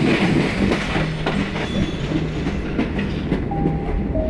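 Indian Railways passenger train running along the track, heard from the side of a moving coach: a steady rumble with the wheels clicking irregularly over rail joints.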